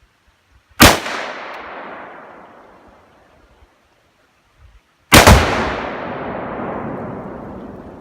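A rifle shot about a second in, with a long echoing tail, then about four seconds later a louder double-cracked blast with a longer rolling echo: a 2 lb Tannerite charge strapped to a dead tree detonating.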